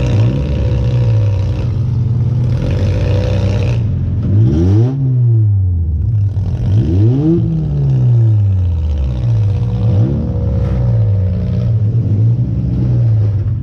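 Demolition derby car engines running loud, revved up and down several times. The pitch rises and falls in sweeps about four, seven and ten seconds in.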